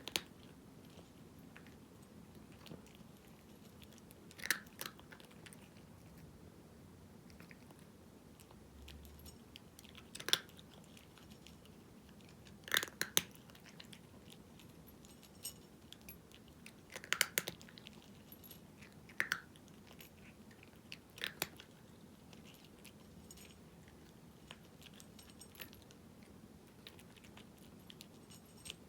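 A cat crunching dry kibble: sharp, separate crunches every few seconds with pauses between, a few coming in quick clusters.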